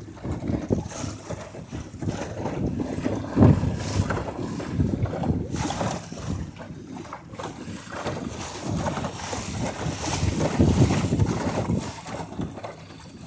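Wind rumbling and gusting on the microphone aboard a small sailboat under way, with water noise from the boat moving through the river. The gusts rise and fall unevenly, with a strong one about three and a half seconds in and another near ten seconds.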